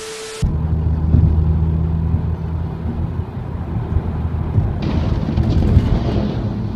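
A brief steady tone, then the low hum of a car engine with road and tyre noise from a moving vehicle. The noise grows hissier and fuller from about five seconds in.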